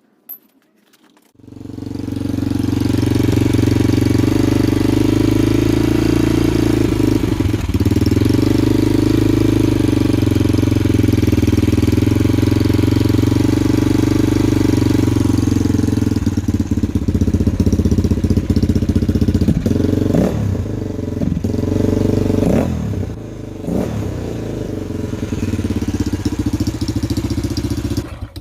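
Honda XR400 dirt bike's single-cylinder four-stroke engine running steadily, with a few quick throttle blips near the end. It is running too rich, which the owner takes for too large jets or the needle position.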